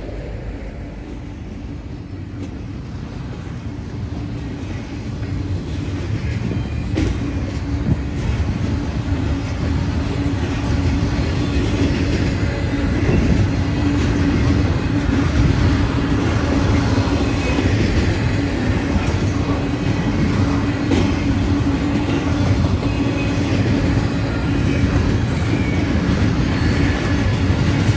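Norfolk Southern freight train approaching and passing: diesel locomotive engines rumbling, growing louder over the first dozen seconds, then a steady heavy rumble with wheel clatter on the rails.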